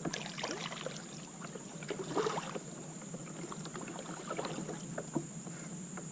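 Kayak paddle strokes dipping and splashing in river water, coming in short bursts about every one to two seconds.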